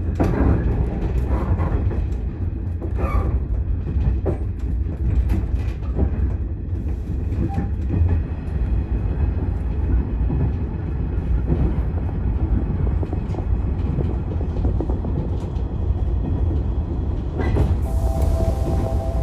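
115 series electric train running along the track: a steady low rumble with irregular clicks and knocks from the wheels and car. Near the end a hiss comes in together with a steady two-note hum.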